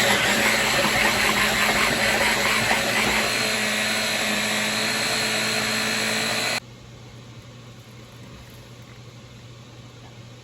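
Electric blender grinding chopped horseradish root, its motor running steadily with the blades churning the pieces, then switched off suddenly about six and a half seconds in, leaving a faint low hum.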